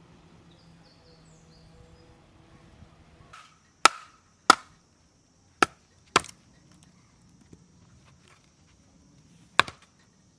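Wood being chopped: five sharp strikes of a blade into wood, four in quick irregular succession and one more after a pause of a few seconds.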